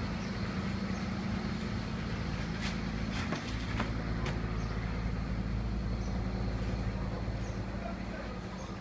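Idromec T800 shear baler running, a steady low machine hum from its power unit, with a few sharp metallic clicks about three to four seconds in.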